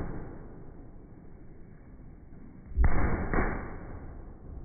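Firework bursts heard slowed down, low and muffled. The first boom is fading away at the start, then two deep booms come about half a second apart near three seconds in, each dying away over a second or so.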